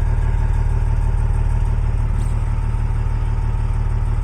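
Helicopter running, a steady low pulsing thud from the rotor with engine noise on top.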